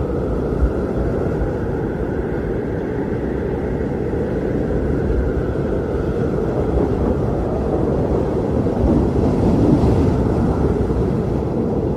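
Strong blizzard wind blowing steadily with a deep rumble and a faint wavering howl, swelling slightly in gusts near the end.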